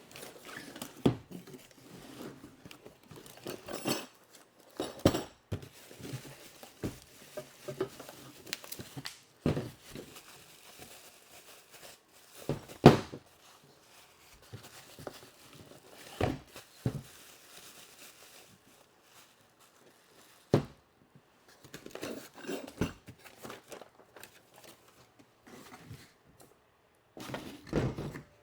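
Unboxing a steel engine support bar: packaging crinkles and tears, and metal parts knock and clank at irregular moments, the loudest knock about halfway through.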